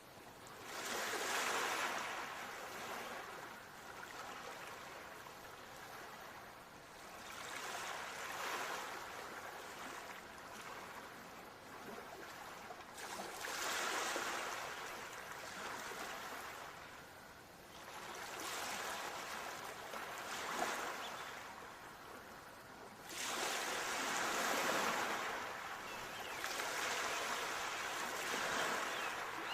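Ocean waves washing onto a shore, each surge swelling and fading every five or six seconds, about six surges in all.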